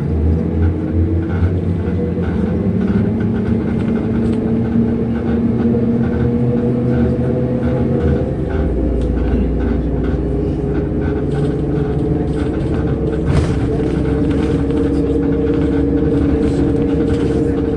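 Cabin noise of a MAZ-105 articulated city bus under way: the diesel engine's steady drone with road rumble. The engine note shifts about eight seconds in, when a deeper drone sets in.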